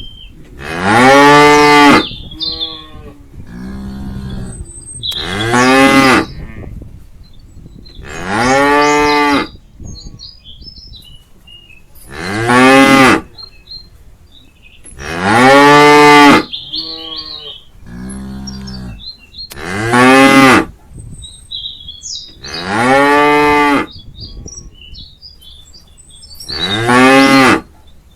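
A cow mooing loudly, eight long calls that each rise and then fall in pitch, one every three to four seconds: calling to the rest of the herd. Fainter moos come in between.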